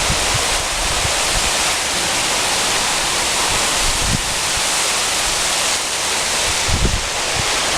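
Heavy rain falling steadily in a thunderstorm, a dense even hiss, with a few brief low thumps, about four seconds in and near the end.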